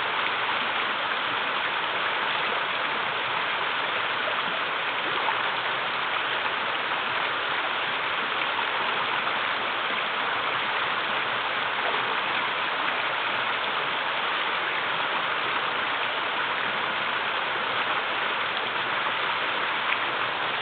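Shallow river water running over small cascades, a steady, even rush and splash with no breaks.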